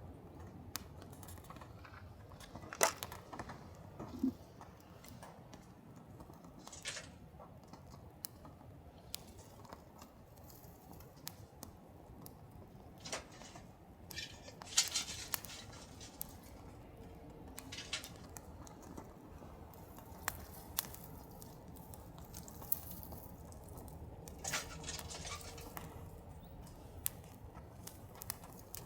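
Sparse small clicks, taps and rustles from handling things close to the microphone, a few of them sharper and louder, over a steady low background rumble.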